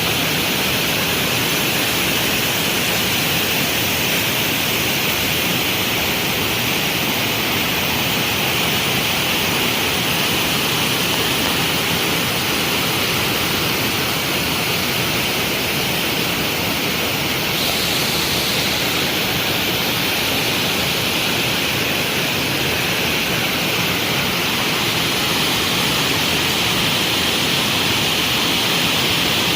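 Waterfall crashing: a steady, loud rush of falling water.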